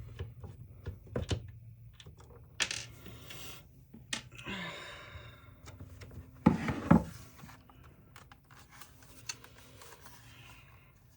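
Screws and small parts clinking and rattling as a power tool's housing is unscrewed and handled, with a short scraping rasp and two louder knocks a little past the middle.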